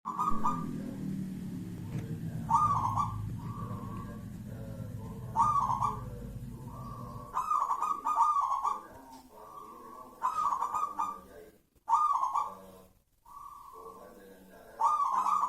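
Zebra dove (perkutut) cooing: a short rolling phrase of quick notes, repeated about every two to three seconds. A low hum runs underneath for the first half and stops about halfway.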